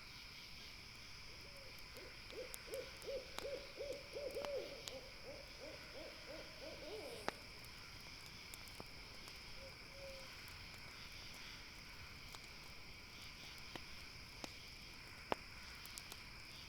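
Night forest campfire ambience: sharp, scattered crackles and pops from the fire over a steady high insect chirring. From about two seconds in comes a quick run of a dozen or so low hooting notes lasting about five seconds, the loudest sound here.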